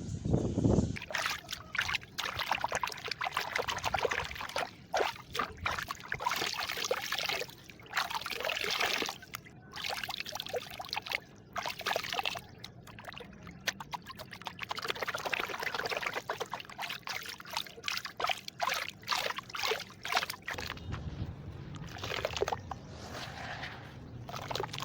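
Irregular trickling and splashing of liquid, a dense run of small crackles and splashes with a loud burst at the start.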